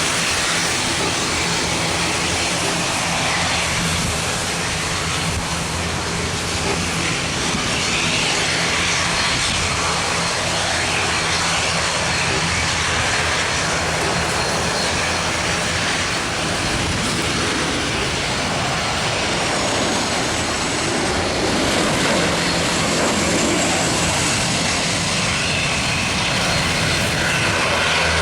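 Jet airliner engines, a Gol Boeing 737 coming in to land: a steady, wide rushing noise over a low engine hum.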